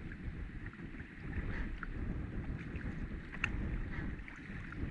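Strong wind buffeting the microphone: a steady, uneven low rumble, with a few faint ticks over it.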